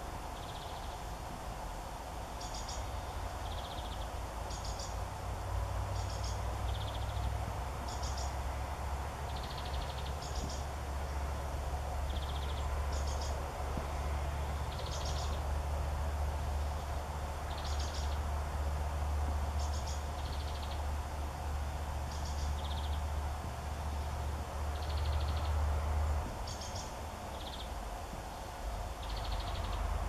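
A small bird calling with short, high, sometimes trilled notes, about once every second or two, over a steady low rumble.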